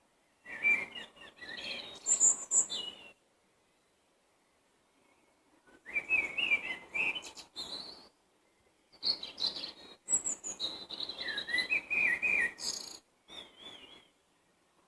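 Songbirds singing in short bursts of quick, varied warbling notes, each phrase lasting two to four seconds with quiet pauses between.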